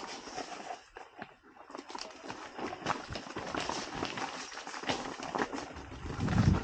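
Mountain bike riding down a rough dirt trail: tyres crunching over stones and roots, with a dense irregular clatter of the bike rattling that grows louder and rumbles more near the end.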